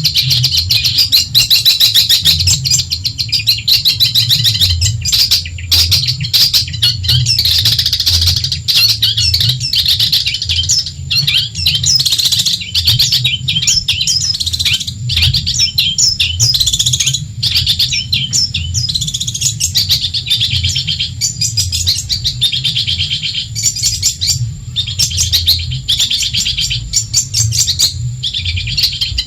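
Long-tailed shrike (cendet) singing a continuous, fast chattering song of rapid high notes, over a steady low hum.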